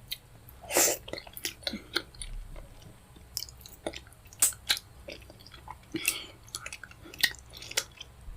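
Close-miked chewing of fufu and pepper soup: irregular wet mouth clicks and smacks, with one louder, longer smack a little under a second in.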